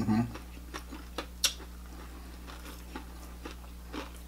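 Close-up eating sounds of a falafel ball being chewed: scattered soft mouth clicks and smacks, the sharpest about a second and a half in, after a brief hummed "mm" at the start. A steady low electrical hum runs underneath.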